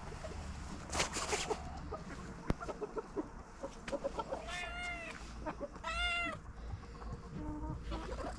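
Two short calls from an animal, each rising then falling in pitch, a little over a second apart, amid rustling and handling noises with one sharp knock.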